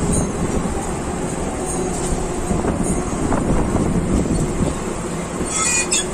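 Electric local passenger train running on the rails, heard from inside the carriage as a steady rumble and clatter, with a brief high metallic squeal near the end.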